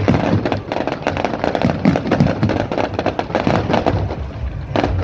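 Fireworks going off in quick succession: a dense, rapid crackle of small pops and bangs, over a low rumble of wind on the microphone.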